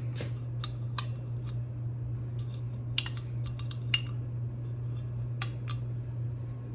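A steady low hum, as from running ceiling fan motors, with a handful of sharp clicks and taps scattered through it. The loudest clicks come about three and four seconds in.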